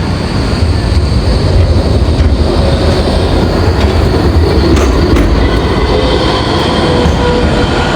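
Alstom Citadis tram running at the stop: a loud, steady low rumble of wheels and running gear, with faint steady tones coming in over the second half.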